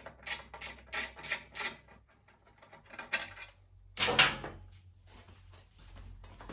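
Rhythmic rasping strokes, about three a second, of a hand tool working bolts loose on a lawn mower's housing, stopping about two seconds in. A louder single clatter follows a little after four seconds in.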